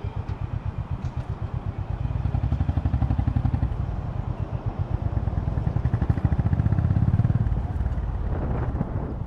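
Honda GB350's single-cylinder engine pulling away from a standstill at low speed, its exhaust beating in a steady thump. The revs rise about two seconds in and again around six to seven seconds, then ease off near the end as the bike slows.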